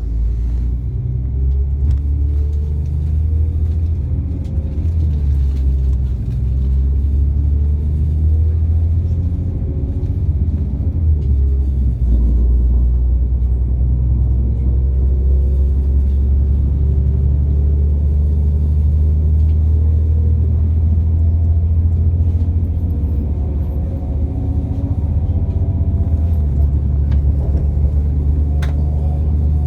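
Diesel passenger train running and picking up speed, heard from inside the carriage: a steady deep rumble with engine and transmission tones that rise slowly in pitch as it gathers speed.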